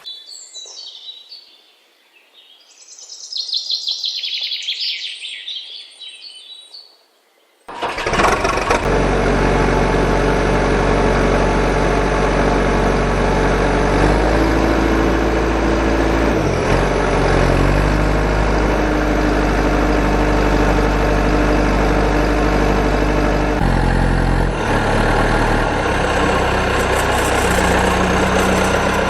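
Birds chirping for the first several seconds, then a heavy truck engine starts up suddenly and runs steadily, its pitch stepping up and down a few times.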